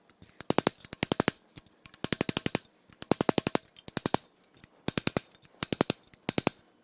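Quick metal-on-metal hammer taps on a steel punch, driving stuck hydraulic lifters up in their bores in a cast-iron V8 block. The taps come in about eight short bursts of rapid strikes with brief pauses between them.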